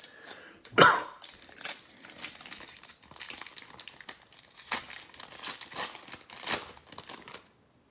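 A football trading-card pack wrapper being torn open and crinkled by hand, in irregular rustles with the loudest rip about a second in.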